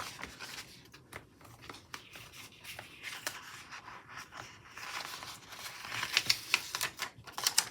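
Paper sticker sheets being handled: soft irregular rustling and crinkling as stickers are peeled off and pressed onto planner paper, with a cluster of sharper crackles near the end.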